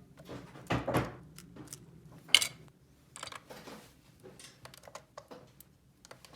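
Small plastic toy pieces being handled, giving a series of light clicks and knocks. There is a heavier knock about a second in and the sharpest click about two and a half seconds in.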